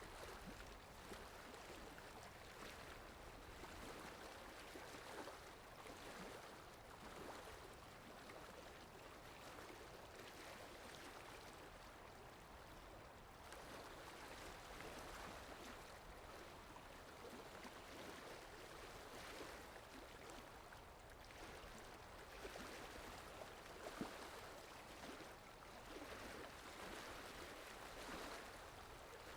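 Faint flowing-water sound effect like a babbling stream, a steady rushing with gentle surges, broken by one brief click about four-fifths of the way through.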